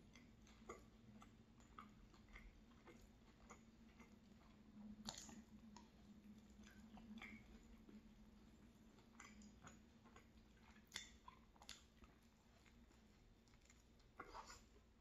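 Faint close-miked chewing and mouth clicks from a person eating a soft egg flatbread, with scattered small clicks throughout and a bite into the flatbread near the end.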